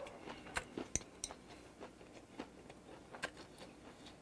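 A person chewing grilled pork with the mouth closed: faint, irregular wet clicks and smacks from the mouth.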